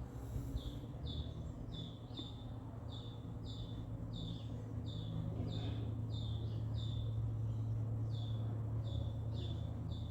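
A small bird calling over and over, short falling chirps about one and a half to two a second, over a steady low hum.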